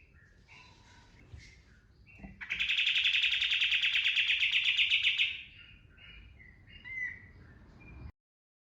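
Kapas tembak, a bulbul, singing: scattered short chirps, then a loud, very rapid trilling burst, the 'tembakan' shot song, lasting about three seconds, followed by softer chirps. The sound cuts off abruptly near the end.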